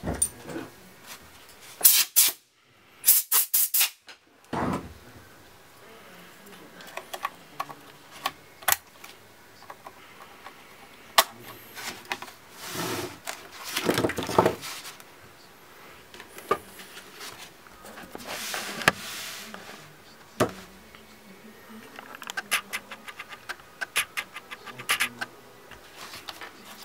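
Hands working on a laptop: scattered sharp plastic and metal clicks and taps, with a few longer rustling swishes about a third and two thirds of the way through, and quick runs of small clicks near the end.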